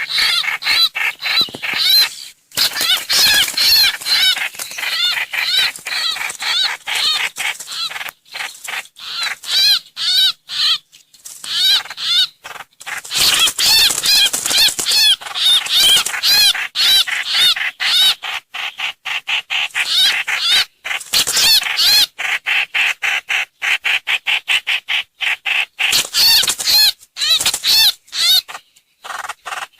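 Trao trảo (hoành hoạch) bird singing a fast, loud run of chirping notes with a few short pauses, the kind of recording played as a lure call to attract the bird.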